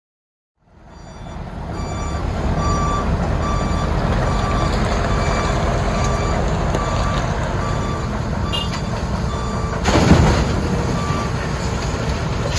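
Heavy diesel machinery running with a backup alarm beeping steadily, somewhat less than once a second, over the engine rumble, as at a dump truck being loaded by an excavator. About ten seconds in there is one brief, loud rush of noise.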